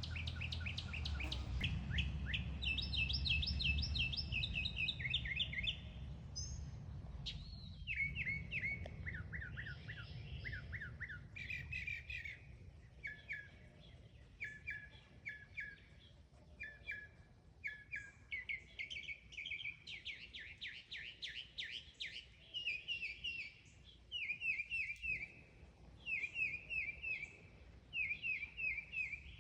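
A mockingbird singing: short chirping phrases, each repeated several times in quick succession before it switches to a new phrase. A low rumble underlies the first few seconds.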